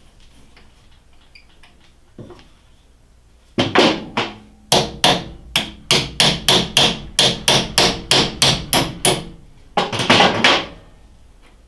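Hammer blows on metal driving a stuck taper pin out of a lathe's underdrive assembly: a couple of strikes, then a rapid run of about four sharp, ringing blows a second, and a last short flurry near the end.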